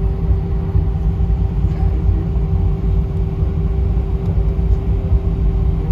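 Steady low rumble of vehicle cabin noise, with a constant hum in it.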